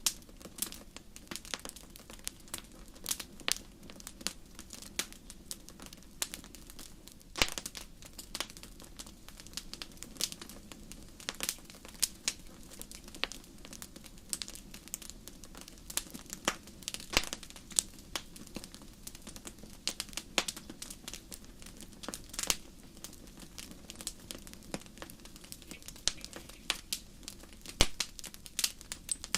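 Wood fire burning in a fireplace: irregular crackles and sharp pops over a steady low hiss of the flames, with louder pops every few seconds.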